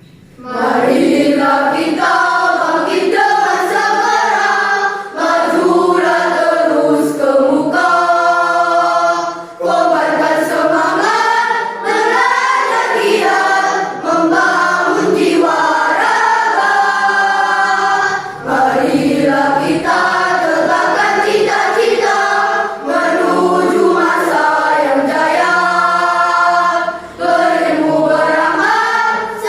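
A school choir of children singing together in a choral song, with short breaths between phrases.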